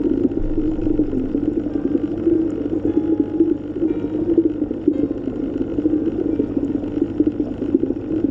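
Steady underwater ambience: a low, churning wash of water with a faint steady hum beneath it.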